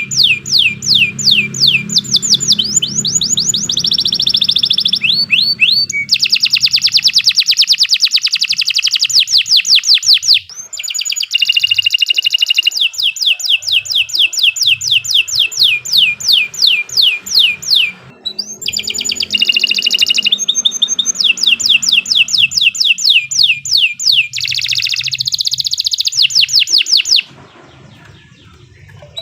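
Domestic canary singing a long, fast song of rapid repeated trills and rolls, phrase after phrase, with brief breaks between phrases. It falls quiet a couple of seconds before the end.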